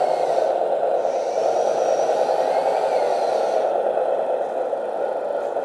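1/18-scale RC Tatra truck driving slowly: a steady hum from its onboard engine-sound module played through a small speaker, with a faint whine from the brushed motor and gears that rises and falls.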